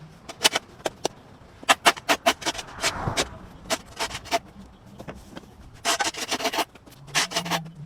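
A shovel scraping and knocking on a concrete sidewalk: quick runs of sharp scrapes and clacks with short pauses between them.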